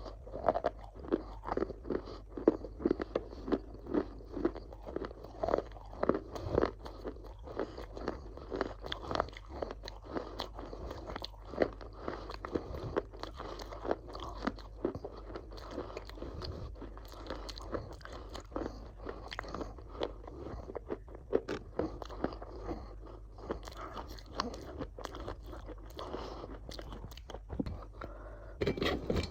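A person biting and chewing crunchy food, a rapid run of crackling crunches several times a second, loudest in the first several seconds.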